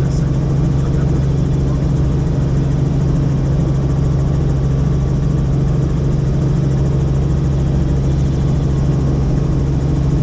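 Helicopter engine and rotor heard from inside the cabin: a loud, steady drone with a strong low hum that does not change.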